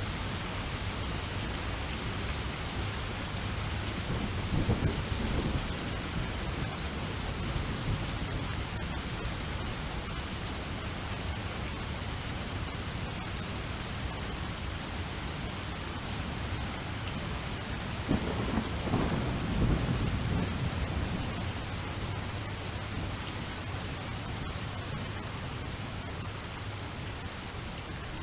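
Steady rain falling, with rolling thunder twice: a shorter rumble about five seconds in and a longer, louder one about eighteen seconds in.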